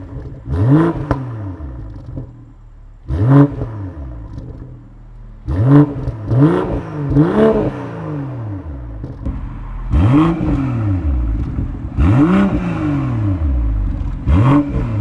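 BMW M440i's turbocharged 3.0-litre inline-six revved in about eight quick blips, the pitch rising and falling with each, a few seconds apart.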